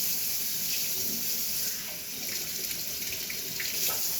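Kitchen tap running steadily into the sink, a constant hiss of water that starts and stops abruptly.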